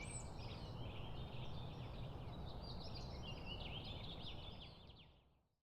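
Ambient birdsong recording: many small birds chirping and trilling over a low background rumble, fading out near the end.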